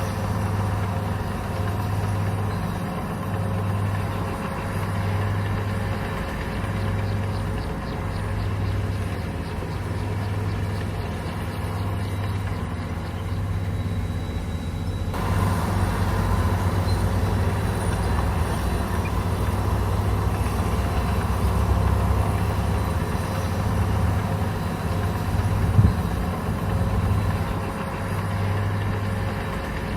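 Komatsu bulldozer's diesel engine running steadily, with a slow regular pulsing in its low drone. There is one short sharp knock near the end.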